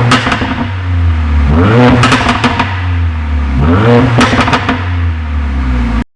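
Mercedes-AMG A45's turbocharged four-cylinder blipped twice, rising in pitch and falling back with bursts of popping and crackling from the exhaust on the overrun: the 'popcorn' sound of a muffler with modified internals and the centre section removed. More pops follow a blip just as it starts, and the sound cuts off abruptly near the end.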